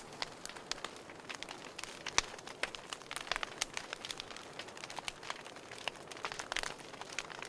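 Wood fire crackling in a fireplace: irregular sharp pops and snaps, a few clearly louder, over a steady soft hiss of burning.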